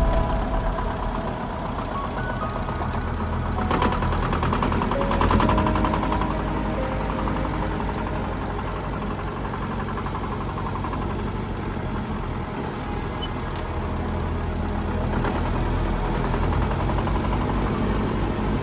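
Diesel engine of heavy earthmoving machinery running steadily, with a short louder stretch of clanking about four to six seconds in.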